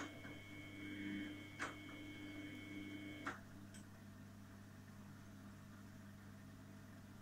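Samsung Eco Bubble washing machine on a wash cycle: a steady motor whine and hum as the drum turns, with a few sharp clicks. The whine stops with a click a little over three seconds in, leaving only a low steady hum as the drum pauses.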